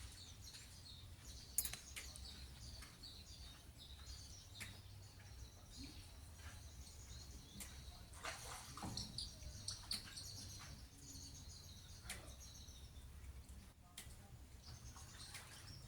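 Faint chirping and calling of small birds throughout, broken by sharp knocks every couple of seconds as a pied kingfisher beats a fish against a metal bar to kill it, over a low steady rumble of lake water.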